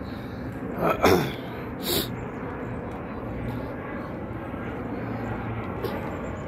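Steady outdoor background rumble, with two short, sharp knocks about one and two seconds in.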